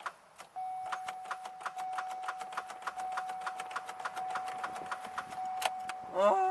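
Starter solenoid of a 2002 Chevy Malibu clicking rapidly, about six clicks a second, over a steady high warning tone, as the key is held in start and the engine does not crank: the sign of a weak starter.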